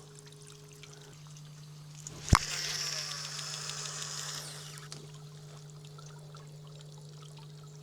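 A fishing cast: the reel releases with a sharp click about two seconds in, then line hisses off the spinning spool for about two seconds and slows. A steady low hum runs underneath.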